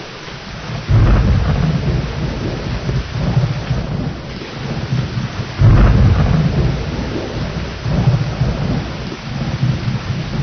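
Steady heavy rain with rolling thunder: one rumble breaks in about a second in, and a stronger one near six seconds, each dying away over a few seconds.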